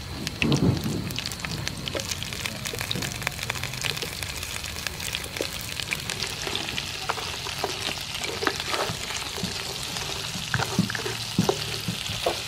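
River prawns frying in hot oil with chopped garlic: a steady sizzle full of sharp crackling spatters. It swells briefly louder about half a second in.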